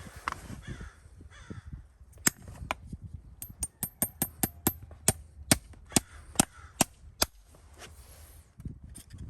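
Hammer tapping on metal: a quick run of light, ringing taps, about six a second, then a few slower, harder single strikes.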